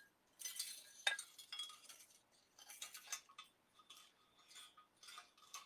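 Faint crinkling and rustling of deco mesh being handled, with scattered small clicks and clinks as a truck decoration is pushed into the wreath.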